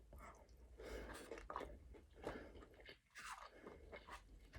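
Faint chewing and crunching of fried chicken strips in the mouth, irregular and soft, with a brief pause about three seconds in.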